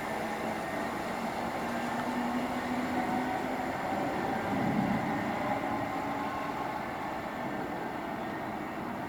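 A train running on the main line, a steady rumble with a low hum that swells briefly about halfway through.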